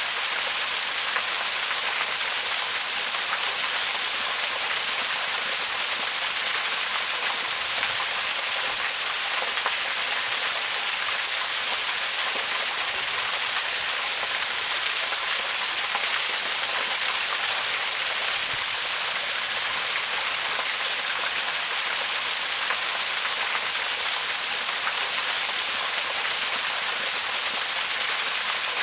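Waterfall: a steady, unbroken rush of falling water, an even hiss that sits high with little low rumble.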